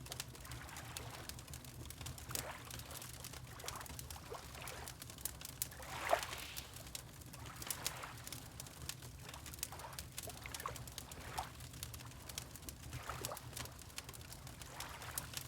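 Fireplace crackling with scattered sharp pops over a steady low hum, mixed with water lapping in small gurgling splashes, the loudest about six seconds in.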